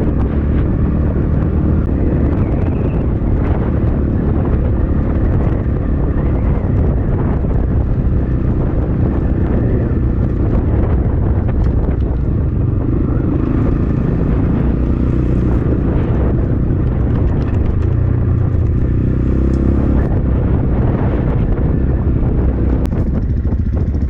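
X-Pro Templar X 250 dirt bike engine running under way on a rough trail, its pitch rising and falling with the throttle. Wind buffets the microphone.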